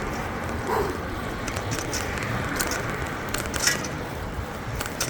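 Steady wind and road noise from riding a bicycle, with scattered sharp clicks and rattles, the loudest a little past three and a half seconds in.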